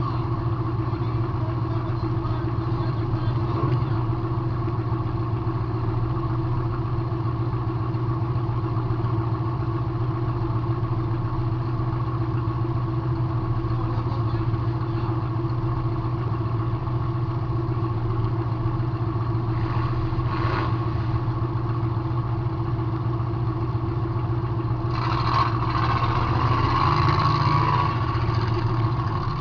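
Demolition derby car's engine running at a steady idle, heard from inside the car, with a brief louder burst of noise near the end.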